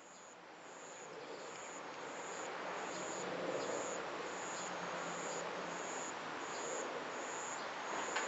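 An insect chirping in a steady rhythm: short high-pitched pulses repeating a little under twice a second. Behind it is a steady rushing background that grows louder over the first few seconds.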